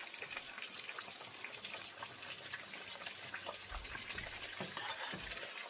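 Fish frying in oil in a pan on the stove: a steady sizzle with many small crackles and pops.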